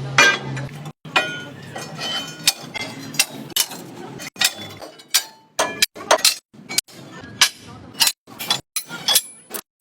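Metal parts being struck or knocked together: a run of sharp clinks and taps at an irregular pace of about one or two a second, several ringing briefly.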